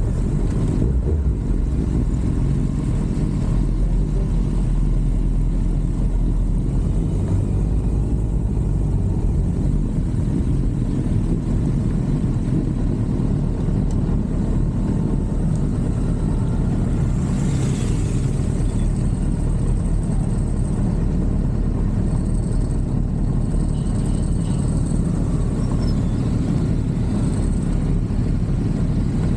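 Motorcycle being ridden: a steady low rumble of engine and road wind noise, with a brief rush of hiss about two-thirds of the way through.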